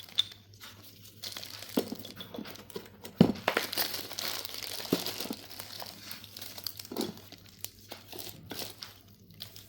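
Plastic packets of yellow slate chips being handled, crinkling irregularly, with scattered sharp clicks and a sharper knock about three seconds in.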